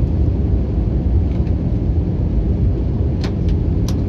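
Steady low rumble of an Airbus A321-200 airliner heard from inside the passenger cabin: engine and airflow noise. A few faint short clicks come near the end.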